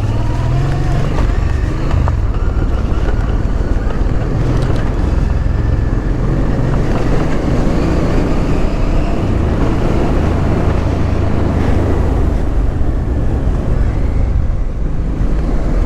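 Honda Transalp 650's V-twin engine running steadily as the motorcycle rides through mud, with wind noise on the microphone.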